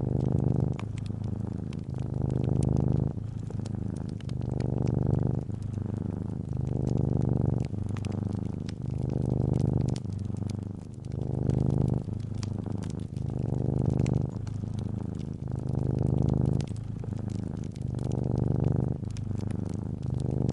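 Domestic cat purring steadily, each breath cycle swelling and easing about every two seconds, with scattered crackles of a wood fire over it.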